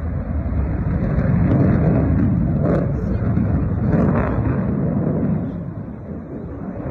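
Loud jet noise from an F-35A's single F135 afterburning turbofan passing overhead: a deep, noisy rumble that swells to a peak about two seconds in and eases off near the end.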